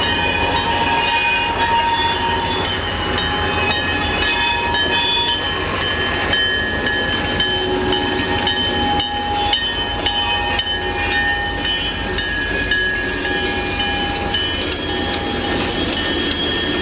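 An EMD SD40-2 and SD40 pair, 16-cylinder diesel locomotives, passing slowly at close range with a steady deep engine rumble and intermittent high-pitched wheel squeal, empty log flatcars following near the end.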